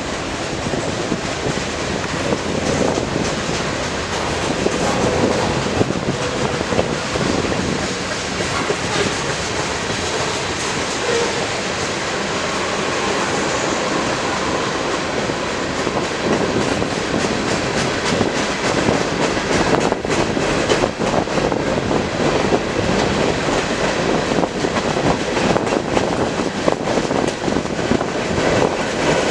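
Freight train rolling past on the Norfolk Southern main line: a steady rush of wheels on rail with rapid clicking from the wheels, busier in the second half.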